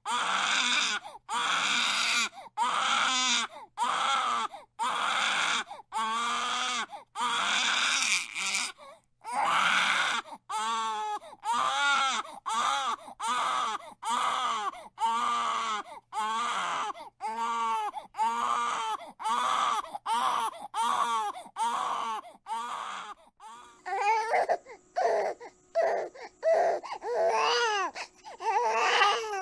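Infant crying: a run of short, rhythmic wails, about one a second, each rising and falling in pitch, with quick breaths between. The cry changes character about a third of the way in and again near the end, as a different recording of a crying baby takes over.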